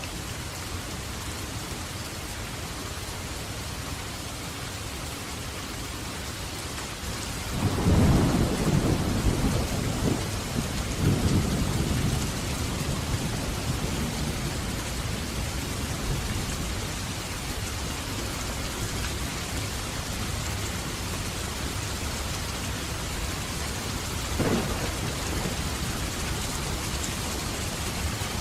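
Steady heavy rain with thunder: a loud rolling thunderclap about a third of the way in that rumbles on for several seconds, and a shorter, fainter rumble near the end.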